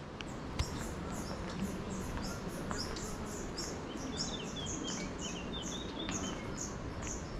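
Small birds chirping in a quick, steady series of about four high chirps a second, with a second bird's twittering joining near the middle, over a low outdoor background hum. A single sharp tick about half a second in.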